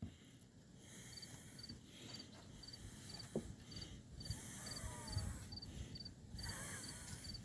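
A cricket chirping steadily, a short high chirp about twice a second, with faint background noise that swells and fades.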